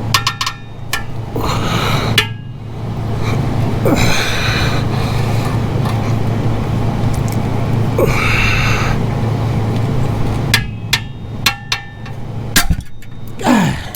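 Sharp metallic clicks and clinks of a tool working a steel exhaust spring at a catalytic converter joint, as the spring is pried and pulled. Two longer rasping strains come in the middle, over a steady low hum.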